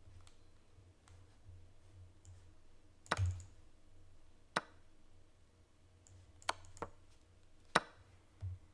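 Sharp, separate clicks of online chess moves being made on a computer, about five spread irregularly over several seconds, over a faint steady low hum.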